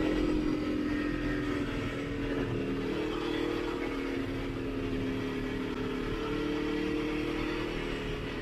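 Motorcycle engine running at a steady cruise while riding, its pitch holding nearly level throughout.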